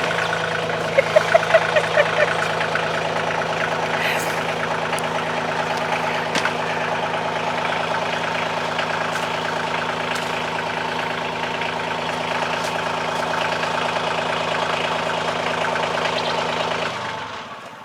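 Kioti CK2610 tractor's three-cylinder diesel engine idling steadily, then shut off near the end, dying away over about a second.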